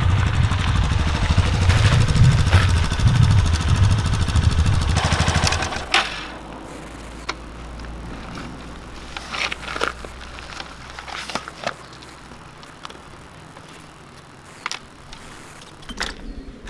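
Yamaha Serow 250 single-cylinder motorcycle engine running loudly for about six seconds, then dropping to a low, steady idle. A few sharp clicks and knocks come over the idle.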